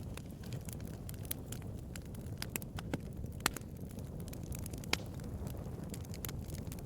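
Bonfire crackling: a steady low rush of the flames with frequent sharp pops and snaps of burning wood, two louder pops about three and a half and five seconds in.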